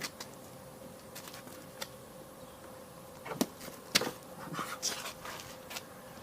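A few sharp knocks and clatters of hands and body against a car's roof rails during a human-flag attempt, the two loudest about three and a half and four seconds in, over a faint steady hum.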